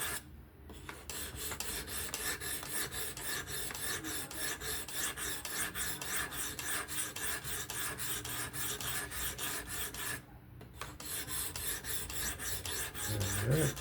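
S30V steel knife blade drawn back and forth over the abrasive stone of a Work Sharp Professional fixed-angle sharpener: a fast, even rasping of sharpening strokes. The strokes break off briefly twice, just after the start and about ten seconds in.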